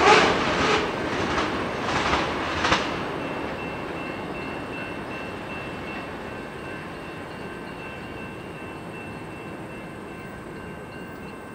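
Tail end of a long freight train of tank cars rolling away: a few last wheel clacks over rail joints in the first three seconds, then the steady rumble of the train fading into the distance. A faint, thin high tone lingers under the fading rumble.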